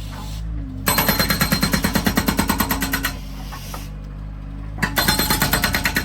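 Felix FX-68 hydraulic breaker hammering in two bursts of rapid blows, about ten a second, the first about two seconds long starting near one second in, the second starting near the end, over the steady running of the Bobcat S130 skid steer's engine.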